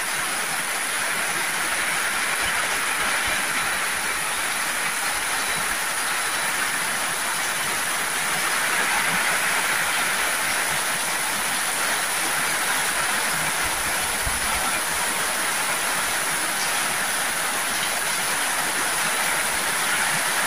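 Heavy rain pouring down onto corrugated metal roofs: a steady, even hiss.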